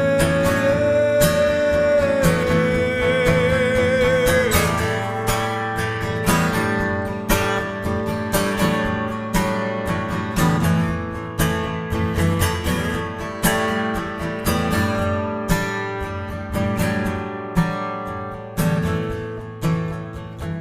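Acoustic guitar played in an instrumental break between verses, with regular plucked and strummed notes. A long held note with vibrato carries over the guitar for the first four seconds or so, then stops.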